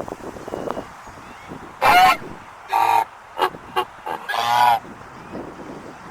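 Fowl honking: three loud, harsh calls, the last one the longest, with a few short clicks between them.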